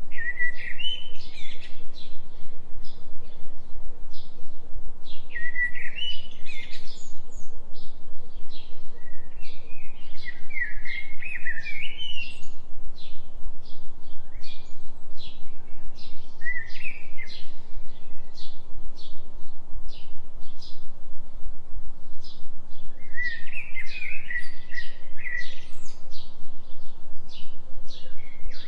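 Forest birdsong: a songbird sings short warbled phrases every few seconds over a steady run of brief repeated chirps. Underneath runs a steady low tone with a fast, even pulse, a delta binaural-beat track.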